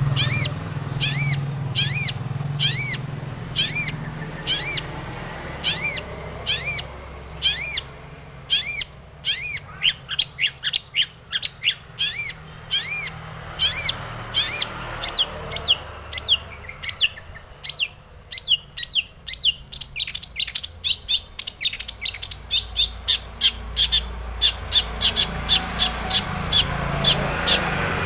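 Long-tailed shrike (cendet) calling in full song with repeated short, sharp notes. They come about two a second at first, then quicken into fast chattering runs in the middle and again near the end.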